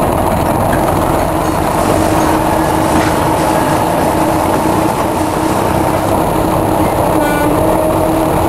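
Train running along the track, heard from aboard: a steady rumble of wheels on rail with a constant hum. A brief high-pitched squeal about seven seconds in.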